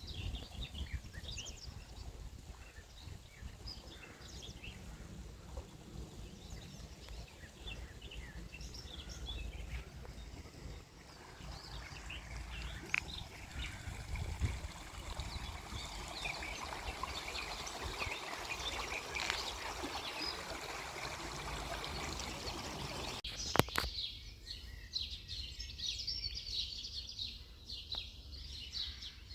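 Birds chirping and singing over a steady rushing noise and a low rumble. About three-quarters of the way through, a couple of sharp clicks come with an abrupt change, after which the birdsong stands out more clearly.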